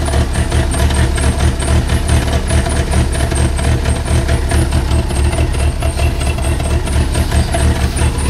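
1985 Dodge Aries's carbureted 2.2-litre four-cylinder engine idling steadily just after a cold start, not yet warmed up; it does not like the cold.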